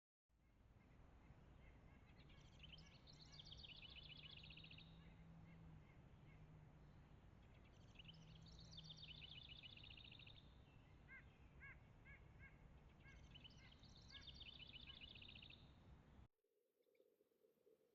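A songbird singing the same short song three times, about five seconds apart, each song ending in a fast high trill, with a few short soft notes in between. A low steady hum runs underneath, and everything cuts off abruptly about sixteen seconds in.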